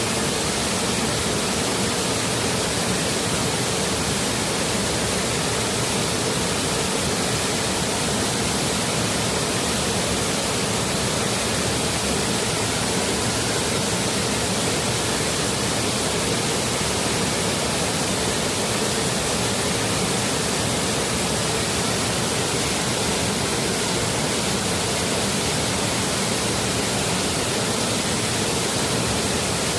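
Forest stream and small waterfall, water rushing in a steady, even wash with no distinct splashes or changes.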